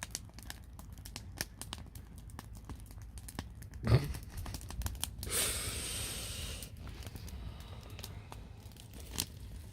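Plastic bag rustling and crinkling with scattered small clicks. A short sharp knock comes about four seconds in, and a denser rustle lasting about a second follows soon after.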